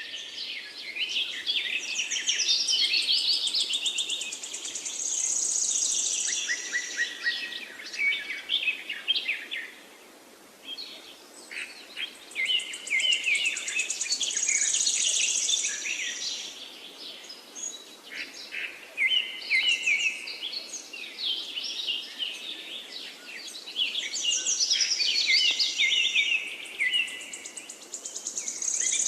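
Songbirds singing in long, busy bouts of trills and chirps, a new bout starting about every ten seconds, over a faint steady hiss.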